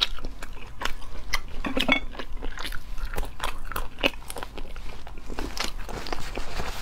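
Close-up chewing and mouth sounds of someone eating a peeled egg: a run of many short, wet clicks.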